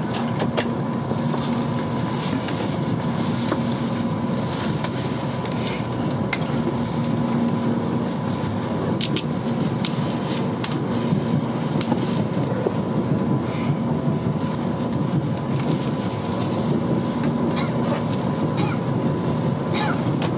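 Cabin noise inside an N700 series Shinkansen car running on the line: a steady rumble from the wheels and track with a faint hum, and scattered sharp clicks.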